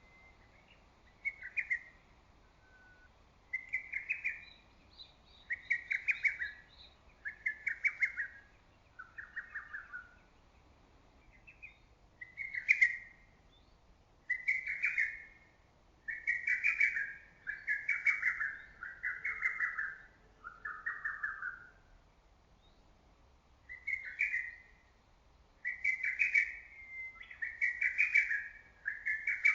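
Lesser cuckoo (hototogisu) singing: short, fast phrases of sharp whistled notes, repeated about every one and a half to two seconds, some phrases dropping in pitch at the end, with brief pauses between runs of phrases.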